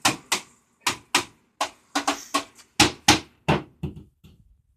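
Hammer repeatedly striking a television set to knock its stuck screws loose: about a dozen sharp blows, often in quick pairs, growing fainter near the end.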